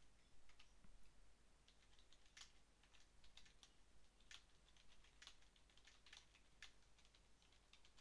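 Faint typing on a computer keyboard: uneven keystroke clicks, several a second.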